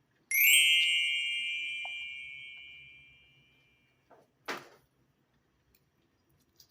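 A single bright metallic ding, struck once and ringing out, fading away over about three seconds. A short sharp click follows a little later.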